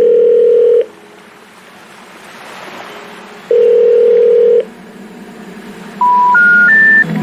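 Telephone network tones: a low steady ringback-style tone sounding twice, about a second each, then three short beeps stepping up in pitch. The rising three-note beep is the special information tone that signals a call cannot be completed.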